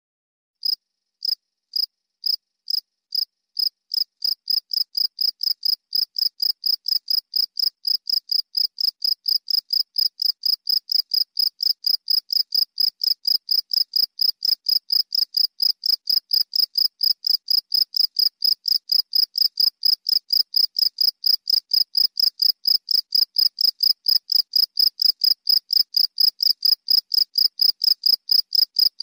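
A cricket chirping in a steady high-pitched pulse. After a short pause it starts again slowly, then settles into an even rhythm of about four chirps a second, growing slightly louder.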